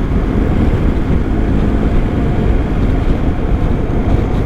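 Wind buffeting a motorcyclist's microphone at road speed, a steady low rumble of rushing air, with the bike's running drone faintly beneath it.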